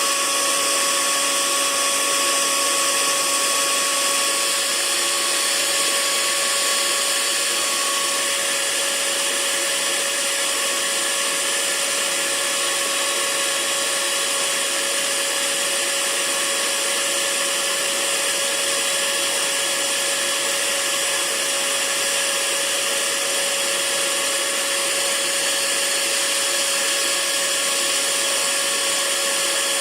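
Hair dryer running steadily as white noise: a continuous rush of blown air over a steady motor whine. A higher part of the whine drops away about eight seconds in.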